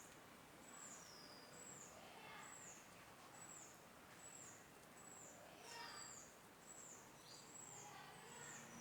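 A small bird calling over and over, thin high notes that each slide down in pitch, about two a second.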